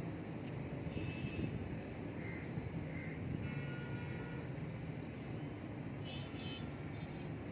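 A few short, high bird calls scattered over a steady low rumble.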